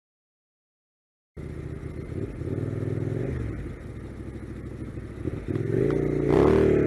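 After about a second and a half of dead silence, a vehicle engine is heard, its pitch rising and falling as it revs. It gets louder and higher near the end.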